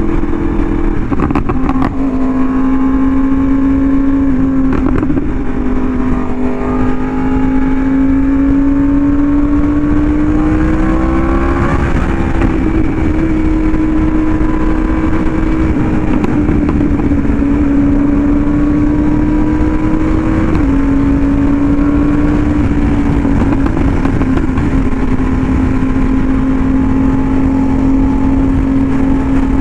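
Yamaha YZF-R1M crossplane inline-four through an SC Project exhaust, running hard at highway speed. The engine note holds fairly steady, climbs gradually in the middle, and drops sharply twice, about two seconds in and about twenty seconds in.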